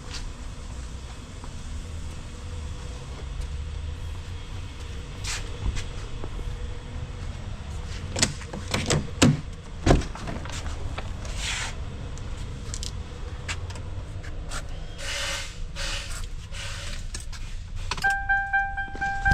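Steady low rumble with scattered knocks and rattling handling noises, the loudest a few sharp knocks about eight to ten seconds in; near the end a chiming melody of background music starts.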